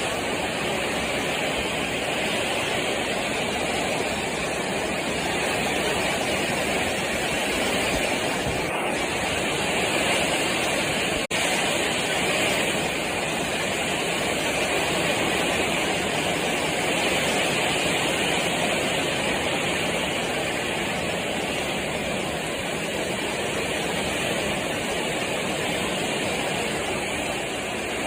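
Heavy rain falling together with strong wind: a loud, steady rushing noise.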